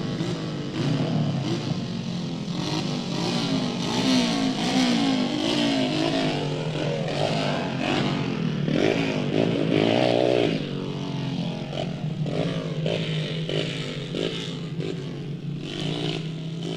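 Motor vehicle engines running, their pitch rising and falling as they rev, over a steady low hum.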